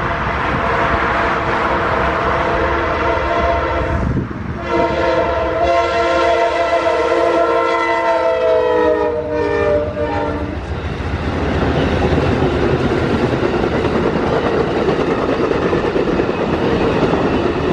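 Amtrak diesel passenger locomotive sounding its multi-tone horn for the grade crossing: a long blast, a brief break about four seconds in, then a second long blast that falls slightly in pitch as the locomotive passes. After about ten seconds the horn stops, leaving the steady rumble and wheel clatter of the passenger cars rolling by.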